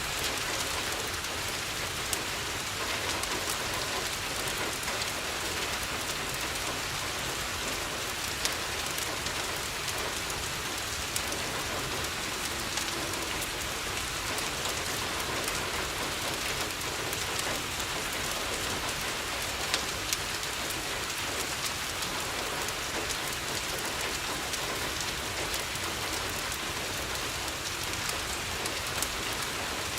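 Steady rain falling on a window: an even hiss, with a few sharp ticks scattered through.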